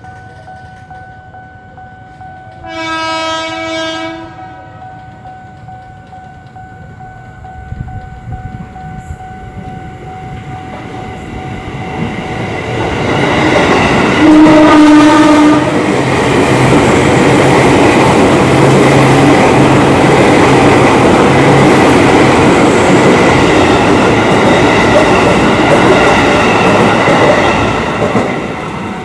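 An electric commuter train (an ex-Japanese 205-series KRL set) sounds its horn once, approaches with a rising rumble, sounds its horn again as it reaches the platform, then runs past with a loud steady rush of wheels on rails and motor noise. The noise eases off near the end as the last car goes by.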